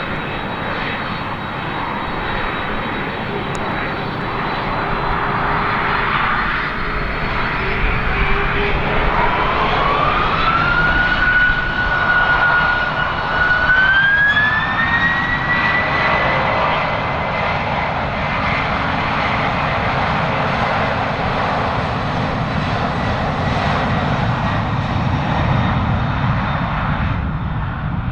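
Boeing 767-300ER jet engines spooling up to takeoff thrust: a roar with a whine that climbs in two steps, about a third and halfway through, then holds steady at the higher pitch.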